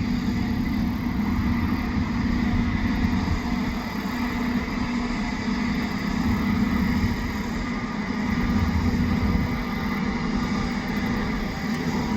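Case 8250 combine harvester running steadily while harvesting soybeans, a constant engine and threshing drone with a steady hum.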